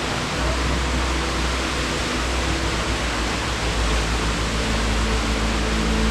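Waterfall running, a loud steady rush of falling water.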